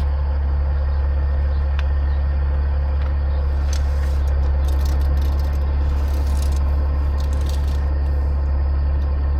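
Steady low drone of an idling engine, with a few faint clicks and scrapes on top.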